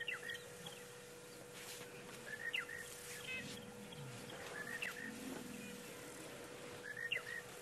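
Wild birds calling in the bush, one repeating a short phrase of a few curling notes about every two and a half seconds, over a faint steady hum.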